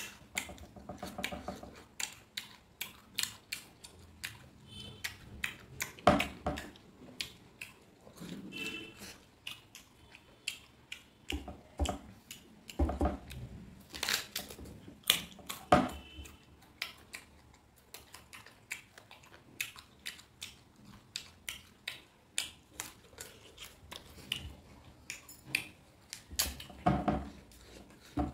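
Crunching bites into a raw green mango and close-up chewing: irregular crisp clicks and mouth smacks, with a few louder bites standing out.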